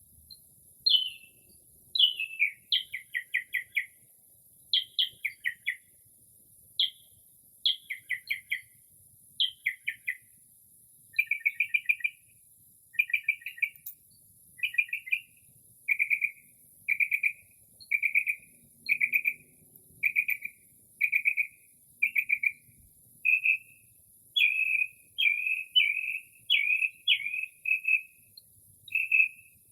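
Northern mockingbird singing a run of mimicked calls. It starts with short downslurred notes, each followed by a quick stuttering rattle. It moves to a long series of short clear notes repeated about once a second, and grows more varied near the end.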